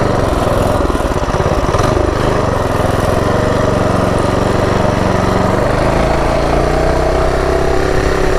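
Built Predator 212 single-cylinder four-stroke engine on a mini bike, running while riding. Its pitch climbs gradually over the last couple of seconds as it speeds up.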